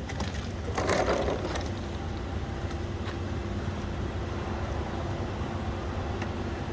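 Semi truck's diesel engine idling steadily, with a brief noisy burst about a second in.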